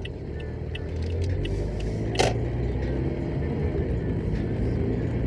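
A car running with low engine and road rumble that grows gradually louder, as if picking up speed, and one sharp click about two seconds in.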